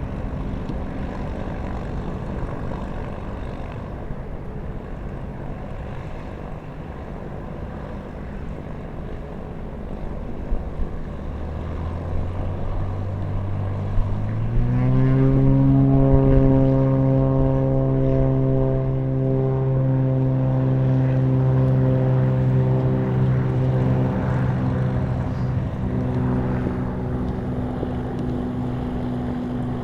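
Propeller aircraft engine starting up low, rising in pitch about halfway through and then holding a steady pitch, over wind noise on the microphone.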